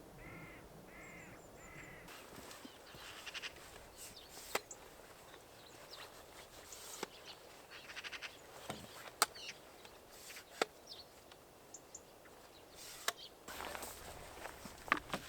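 A crow-like bird cawing a few times in quick succession at the start, then faint outdoor background with scattered sharp clicks and taps and a few brief high chirps.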